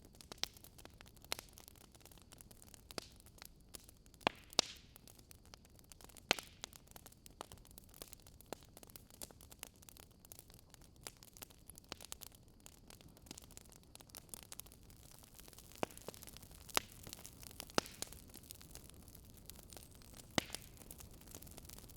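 Wood fire crackling: irregular sharp pops and snaps, a second or more apart, over a faint steady hiss.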